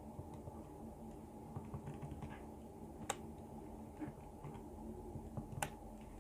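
Scattered faint clicks of keys being pressed, with two sharper clicks about three and five and a half seconds in, over a low steady hum.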